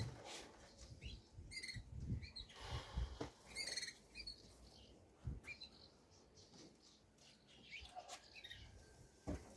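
Small birds chirping in short, high, repeated notes, busiest in the first few seconds. A few low thumps are heard, one at the start, a couple around two to three seconds in, and one near the end.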